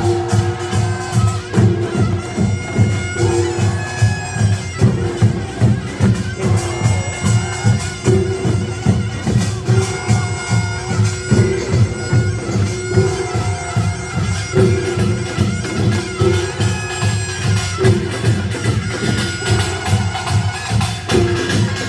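Gyeongsang-style nongak farmers' band music: a taepyeongso (Korean shawm) plays a wavering melody over a steady, driving pulse of drums and gongs.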